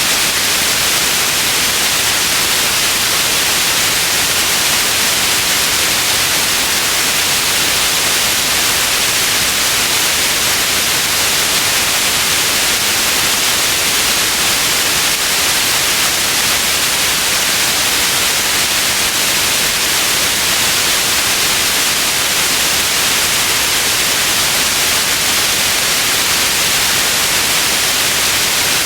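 Steady, unchanging white noise: an even hiss, heaviest in the upper range, with no events or variation.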